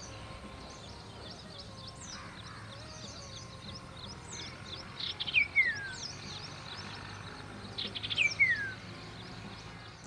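Common iora calling twice, each call a quick run of short notes that drops into a long, falling whistle. Faint chirps of other small birds sound throughout.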